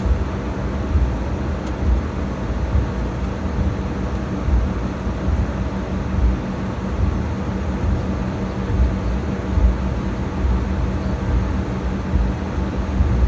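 Jet airliner taxiing: a steady engine hum at low power with an uneven low rumble.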